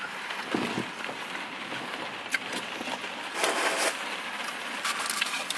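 Chewing of crunchy battered seafood and chips close to the microphone: scattered crackles over a steady background hiss, with a louder crunching patch about three and a half seconds in.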